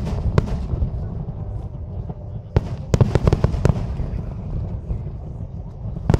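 Aerial firework shells bursting: a sharp bang about half a second in, a quick run of bangs around three seconds in, and another just before the end, over a steady low rumble.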